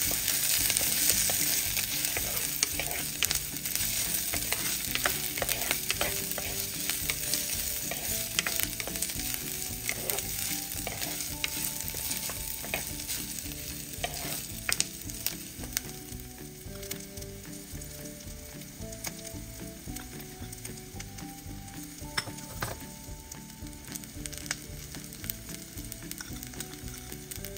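Sliced onions, pandan and curry leaves sizzling in hot oil in a clay pot while a ladle stirs them, scraping and knocking against the pot. The sizzle is loudest in the first few seconds and gradually dies down.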